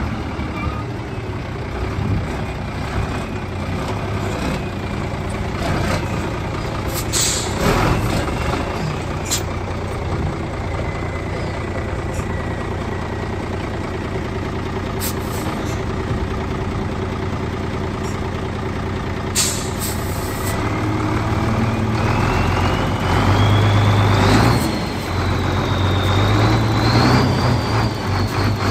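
Diesel engine of a HOWO 6x4 tractor truck running on a drive, with two short air-brake hisses, one about a quarter of the way in and one about two-thirds through. In the last third the engine grows louder with a whine that rises in pitch as the truck picks up speed.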